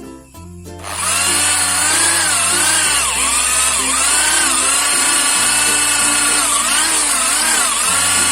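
A power tool starts up about a second in and runs steadily, its pitch dipping and recovering again and again, over background music with a stepping bass line.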